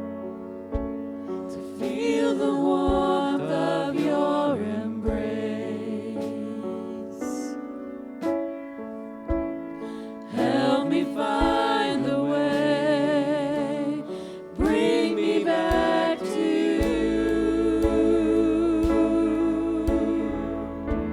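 A congregation singing a slow worship song with keyboard accompaniment, in phrases of a few seconds each, with a long held chord and bass notes near the end.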